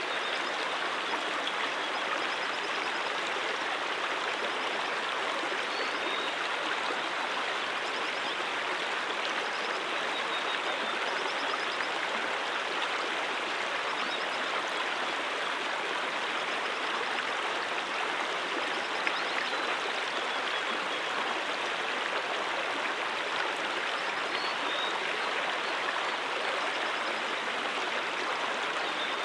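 Brook water flowing steadily over rocks, a continuous even rushing babble with no breaks or changes.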